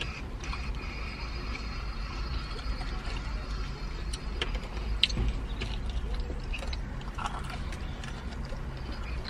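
Close-up crunching and chewing of crispy fried chicken breading, with scattered sharp crackles, over a steady low rumble.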